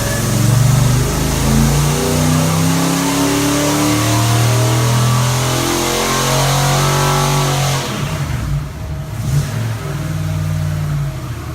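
Ford 347 stroker V8 on an engine dyno making a full-throttle pull, its pitch rising steadily as the revs climb. About eight seconds in the throttle shuts and the engine drops back, then runs slower and quieter near the end.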